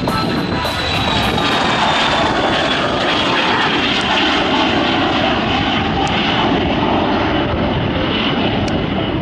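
Airliner engines running loud and steady as the aircraft passes, a high whine sliding slowly down in pitch over a rushing noise.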